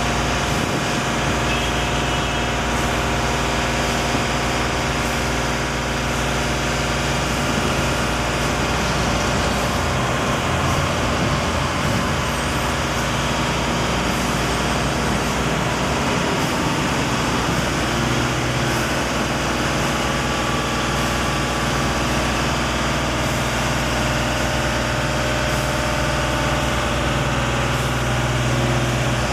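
A heavy engine running steadily at a constant pitch, with no revving.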